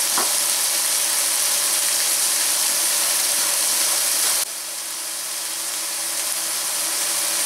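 Chopped asparagus sizzling in butter and oil in a stainless steel pan, a steady frying hiss that drops suddenly about halfway through and then slowly builds back up.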